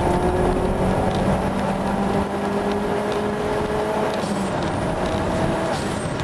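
Toyota Starlet Glanza's four-cylinder engine heard from inside the cabin, pulling under acceleration with its pitch climbing slowly, the note shifting briefly about two and four seconds in. Road and tyre noise run beneath it.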